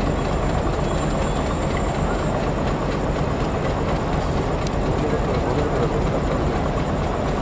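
Diesel locomotive-hauled train approaching: a steady rumble of the engine together with the wheels on the rails.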